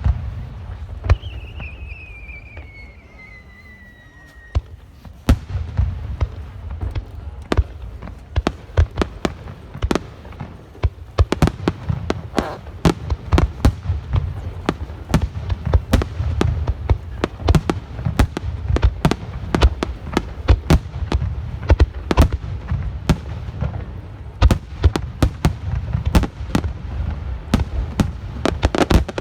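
Fireworks display: a couple of sharp bangs and a falling whistle, then from about five seconds in a dense, rapid barrage of shell bursts over a low rumble that keeps going.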